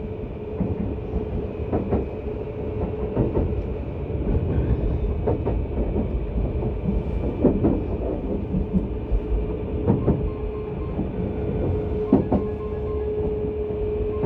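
Interior running sound of a Keisei 3700 series electric train car. Wheels knock over rail joints every second or two over a steady rumble, with a steady hum throughout.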